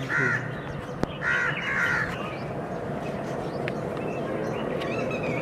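A bird calling: a few short calls in the first two seconds, with a single sharp click about a second in, over steady background noise.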